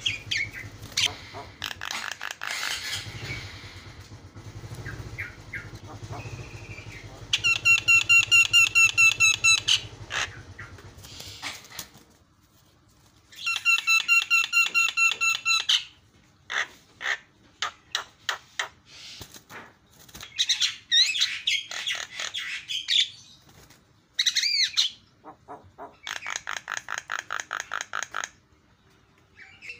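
Javan myna (jalak kebo) singing a varied string of calls. Among them are several runs of rapid repeated notes, each lasting two to three seconds, with short pauses between phrases.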